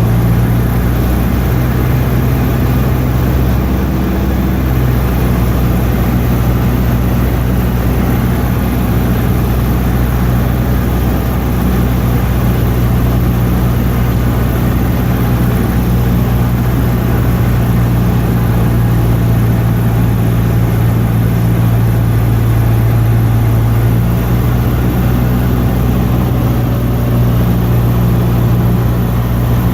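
Cessna 152's four-cylinder Lycoming O-235 engine and propeller droning steadily, with a small shift in pitch about four seconds in and again a few seconds before the end.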